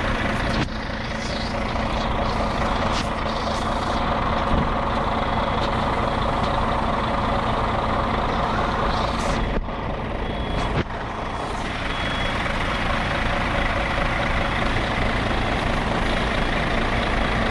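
A vehicle engine running steadily, dropping briefly about ten seconds in.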